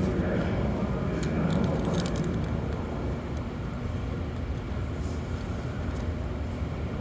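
Subway train running, heard from inside the car: a steady low rumble with scattered rattles and clicks.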